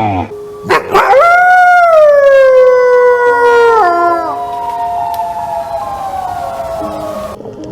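A dog howling: one long howl of about six seconds that slowly falls in pitch and fades near the end.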